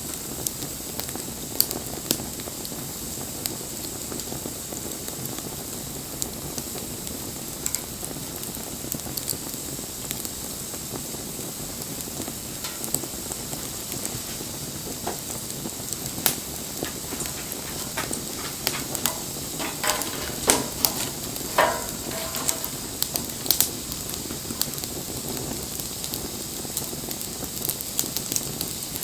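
Wood fire burning, a steady hiss and sizzle with scattered sharp crackles and pops; the crackles come thicker and louder for a few seconds about two-thirds of the way through.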